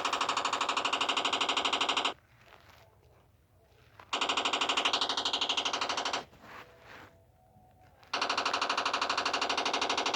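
Electric bell ringing in three long bursts of rapid, even strokes that start and stop abruptly: the first ends about two seconds in, the second runs from about four to six seconds, and the third starts about eight seconds in.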